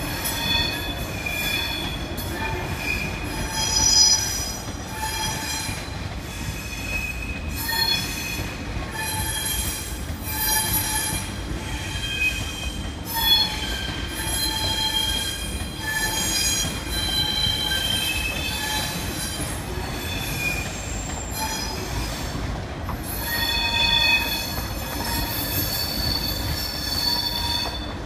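TGV Duplex double-deck high-speed train rolling slowly past, its wheels squealing on and off in high tones over a steady low rumble from the cars.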